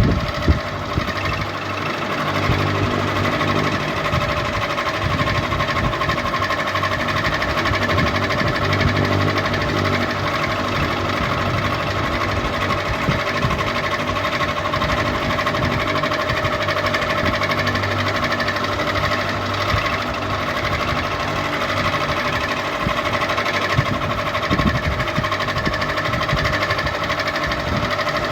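Ceiling fan running steadily: a constant motor hum with a fast, even rattling tick over it.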